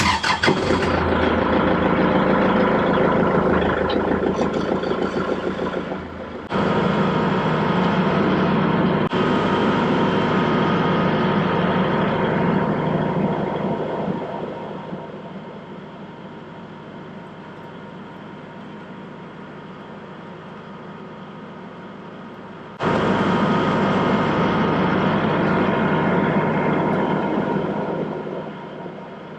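Kubota tractor engine running at high throttle, easing down to a lower steady run about halfway through and coming back up abruptly near the end.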